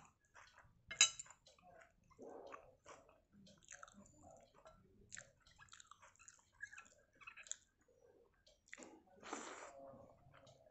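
A person eating by hand: chewing and biting food, with faint wet squishing as fingers work the soaked rice. There is a sharp click about a second in and a longer, louder noisy sound near the end.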